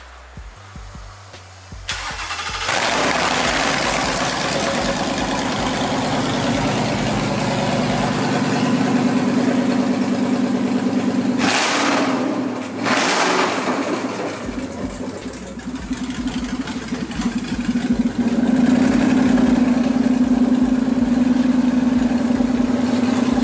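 Ford V8 crate engine on a pallet test stand starting up about two seconds in, catching and running loud at idle. About halfway through the throttle is blipped twice, then it settles back to a steady idle.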